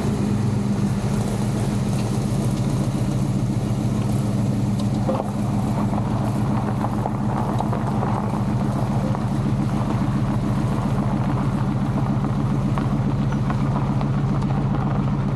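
A 1939 Chevrolet Master Deluxe's engine idling steadily, with an even, unchanging pitch.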